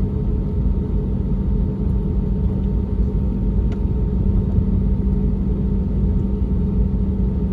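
Steady cabin noise of an Airbus A320neo with CFM LEAP-1A engines: a low, even rumble with a constant hum.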